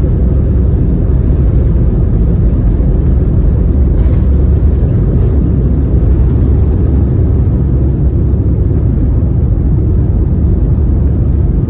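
Steady, loud rumble of an airliner's cabin noise, an even roar of engines and airflow with no changes.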